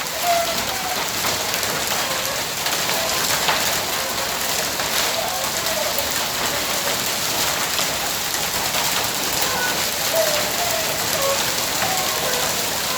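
Hail and heavy rain falling steadily on a hard surface, a dense hiss with a few sharper individual hits.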